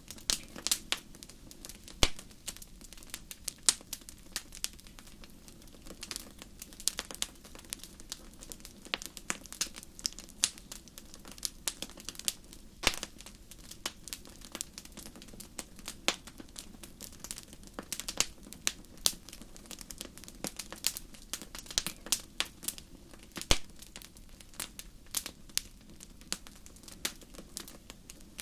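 Fireplace fire crackling: a dense, irregular run of sharp pops and snaps over a faint steady low rush, with a few louder pops, including one about two seconds in and another near the thirteen-second mark.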